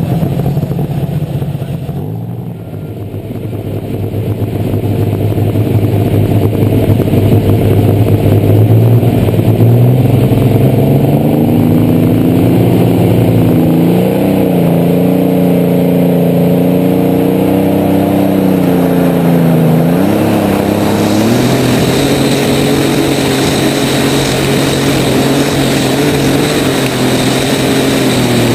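Light super stock pulling tractor's engine heard on board, running hard: its pitch dips early, climbs over several seconds, then holds high and steady with small wavers and one brief dip about two-thirds of the way through.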